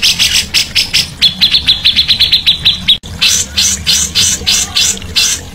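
Songbird calling in rapid series of harsh, high notes, about five a second, with a faster run of short clipped ticking notes in the middle that breaks off abruptly about three seconds in.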